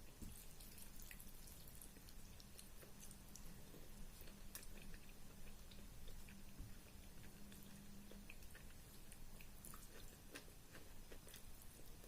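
Faint, wet chewing and small mouth clicks of someone eating rice with dal and curry, close to the microphone. A faint low hum stops about two-thirds of the way through.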